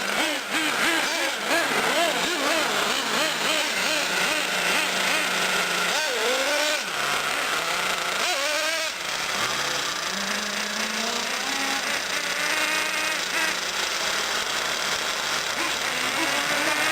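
Several nitro R/C trucks and buggies running on a dirt track, their small two-stroke glow engines overlapping and revving up and down quickly, with a sharp rev rising and falling about six seconds in and again near nine seconds.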